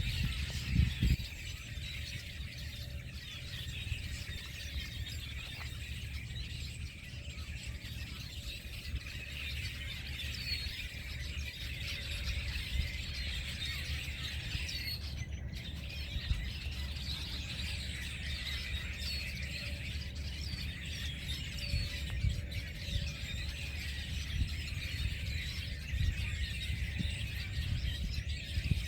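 A large flock of small birds chirping and calling all at once, a dense, continuous chatter of high, squeaky notes with no single song standing out.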